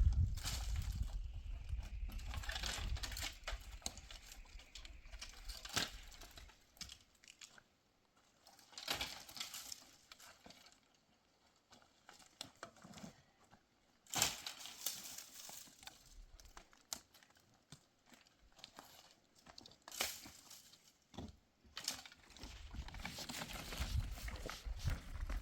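Irregular rustling and crinkling with scattered short knocks, in spells separated by quieter gaps, as of materials being handled close by.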